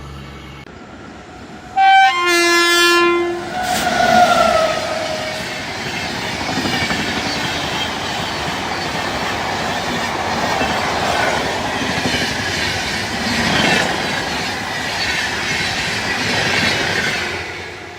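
A train's horn sounds about two seconds in, then sounds again with its pitch falling as the locomotive goes by. The coaches then run past at speed, their wheels clattering on the rails, fading away near the end.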